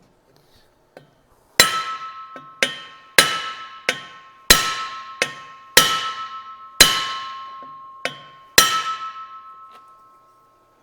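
About ten hammer taps on a steel driveshaft tube held in a lathe, straightening out its runout; the tube rings after each blow and the ring dies away over about a second. The blows come irregularly, every half second to a second and a half, some harder than others.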